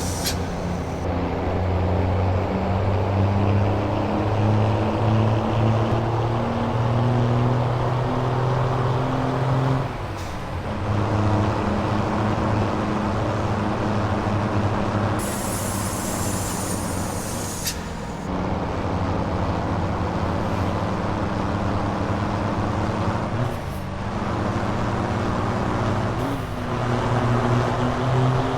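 Scania V8 diesel truck engine pulling under load, its note climbing and then dropping at gear changes about ten, eighteen, twenty-four and twenty-six seconds in. A hiss of air lasts about three seconds around the middle.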